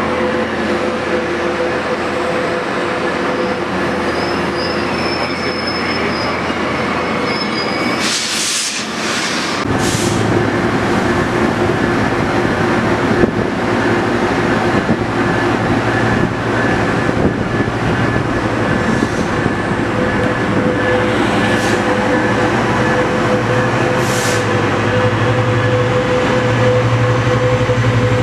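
Train running through the station, with a steady mechanical hum and brief high wheel squeals. About ten seconds in a deeper low drone sets in and the sound gets louder.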